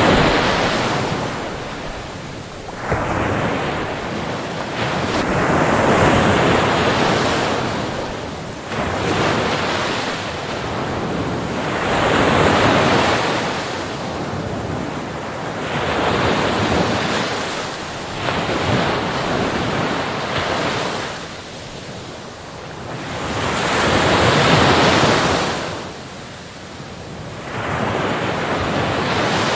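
Ocean surf on a beach: waves break and wash in, each surge swelling and fading over several seconds, one about every four to six seconds.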